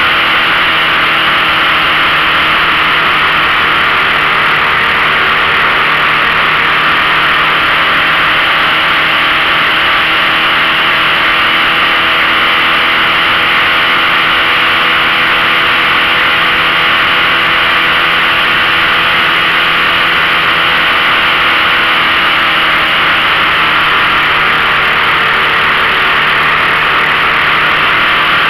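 A 15 hp outboard motor running steadily under way, its pitch almost unchanged, with a steady rushing noise over it.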